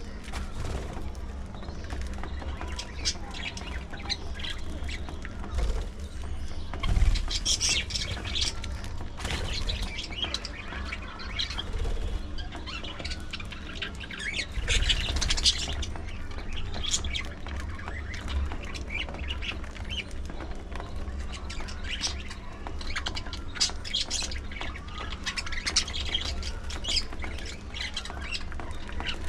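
A flock of budgerigars chattering, with many quick, overlapping chirps and squawks.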